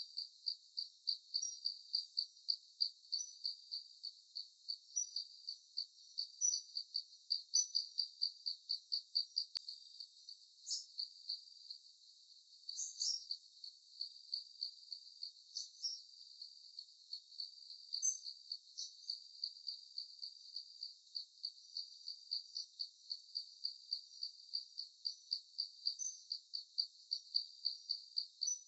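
A cricket chirping in an even rhythm, about three chirps a second, with a few brief higher calls scattered among the chirps.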